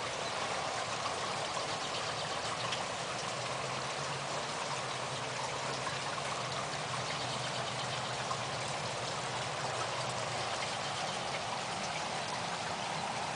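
Light rain falling steadily on a sidewalk and patio: an even hiss with scattered drop ticks.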